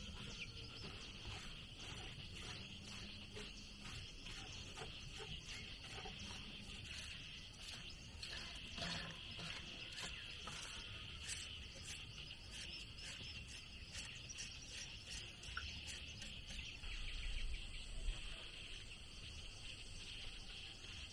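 Insects, crickets or cicadas, droning steadily, with a run of quick faint ticks through the first half and a couple of louder knocks near the end.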